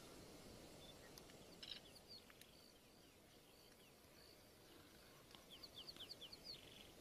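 Faint wild bird calls over quiet outdoor ambience: a few short high chirps about two seconds in, then a quick series of short falling notes near the end.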